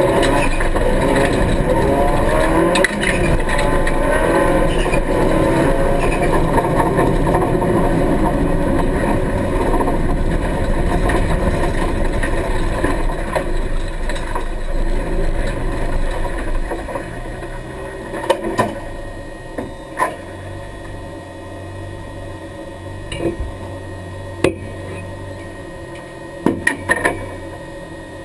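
Rally car engine heard from inside the stripped cabin, running under load as the car drives slowly, then settling to a quieter steady idle about two-thirds of the way through once the car stops. Several sharp clicks and knocks near the end.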